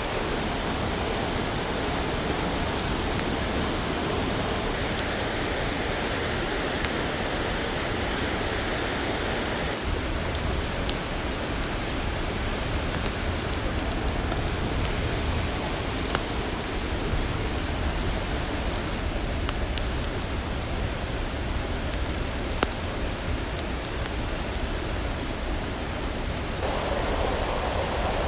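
Steady rushing of a flowing river, an even noise with faint small clicks scattered through it; the sound changes slightly about a third of the way in and again near the end.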